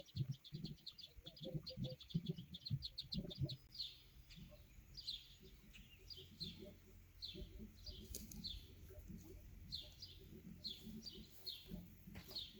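Small bird chirping: a quick run of short chirps for about the first three and a half seconds, then slower chirps that slide downward, about one or two a second. Low knocks sound underneath during the first few seconds.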